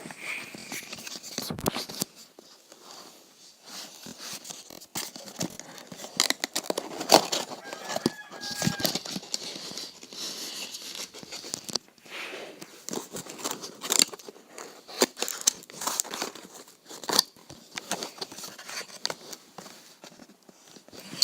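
Packaging being opened and handled by hand: irregular tearing, crinkling and rustling with scattered clicks and taps.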